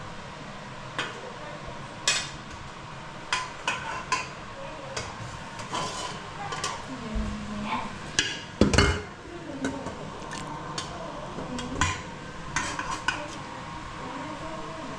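Serving spoon clinking and scraping against pots and plates as food is dished up, with scattered irregular clinks and one louder knock about nine seconds in.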